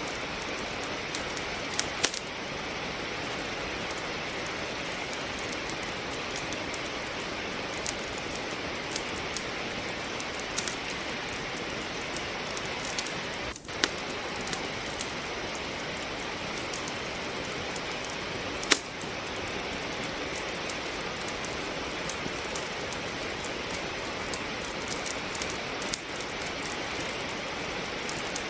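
Steady rain falling, with the occasional sharp crackle and pop of firewood burning in a fireplace, loudest about two seconds in and again a little past the middle.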